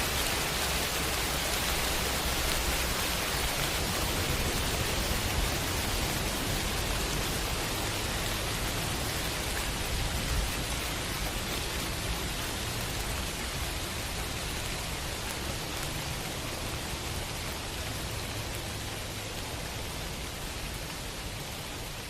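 Heavy rain falling steadily, a dense even hiss with a low rumble beneath it, easing off slightly toward the end.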